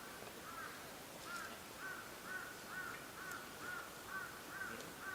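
An animal call, most likely a bird: a short rising-and-falling note repeated about twice a second in a steady series.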